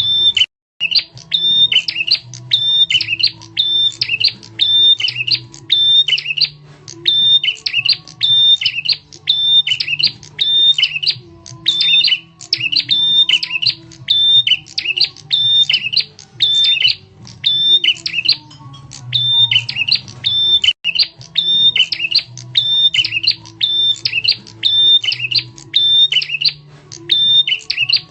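Prenjak tamu (a prinia) calling: loud, sharp chirping phrases repeated over and over in an even rhythm of about one a second, played as a bird lure call.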